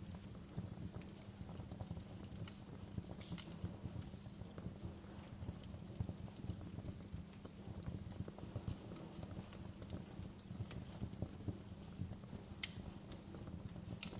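Wood fire crackling in a fireplace: a dense run of small irregular snaps and pops, with two sharper pops near the end.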